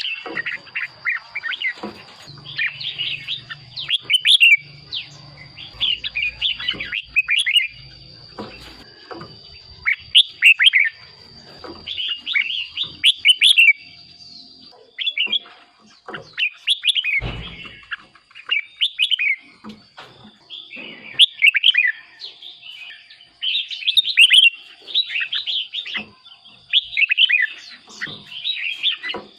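Red-whiskered bulbul singing: short, bright warbled phrases repeated every second or two, with brief gaps between them.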